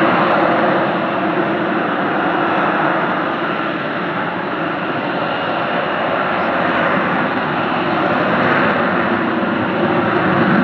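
Loud, steady engine noise from an aircraft flying over at an airshow, swelling a little near the end.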